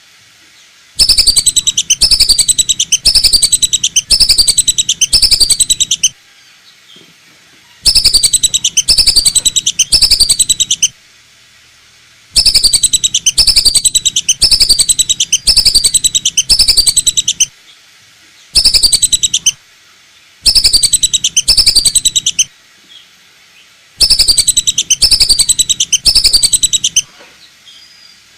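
Lesser whistling duck (belibis batu) lure call: loud bouts of rapid, repeated high falling whistles, each bout lasting a few seconds, with short pauses between bouts.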